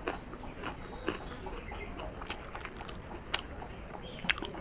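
Close-miked chewing of a mouthful of instant noodles with the lips closed: wet mouth clicks and smacks at irregular intervals.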